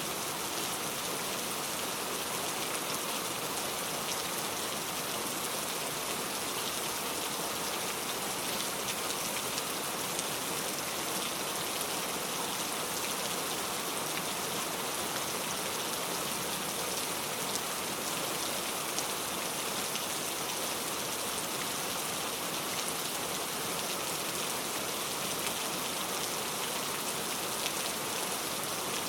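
Steady rain falling, a dense even patter of drops with fine crackling ticks.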